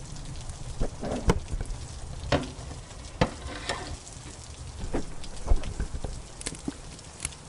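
Wood fire in a fireplace crackling, with irregular sharp pops and snaps, over a steady hiss of rain.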